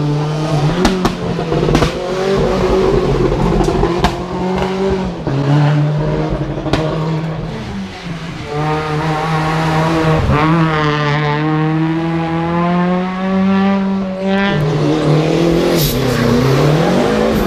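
Rally car engine at full attack on a stage, heard onboard: revs climb and drop through repeated gear changes, with sharp cracks in the first few seconds, a lift off about eight seconds in and again near fourteen, and the pitch swooping up and down near the end.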